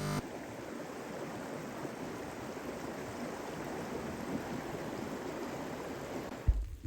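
River water flowing steadily, a continuous rushing. A short low thump near the end.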